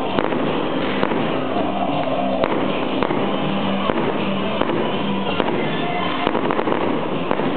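Fireworks going off: a steady run of sharp bangs and crackles, several a second, over loud music with held notes.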